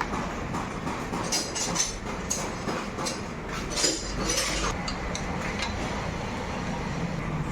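Scattered metallic clinks and knocks of hand tools on motorcycle parts during dismantling of the engine, over a steady background hum.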